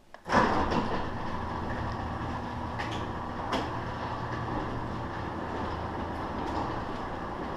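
Chain-drive garage door opener starting with a sudden clunk, then running steadily with a motor hum and a few clicks as the door travels. Its drive chain is loose.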